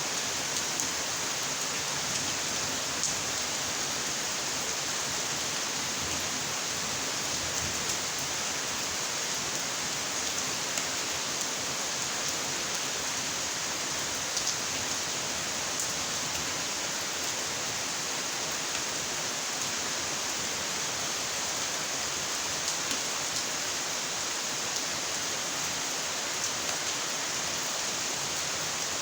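Steady rainfall, an even hiss of rain with scattered faint ticks of individual drops striking a surface.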